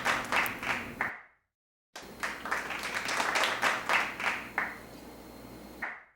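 Rapid, fairly regular knife strikes on a wooden cutting board, about three or four a second, in two runs broken by a second of silence.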